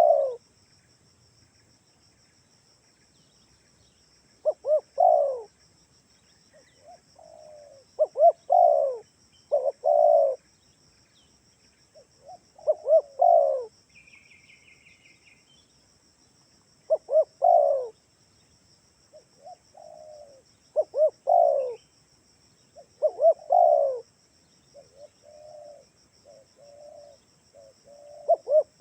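Spotted dove (tekukur) cooing: short groups of repeated coo phrases every few seconds, with softer, quieter coos near the end. A brief high chirping comes about halfway through.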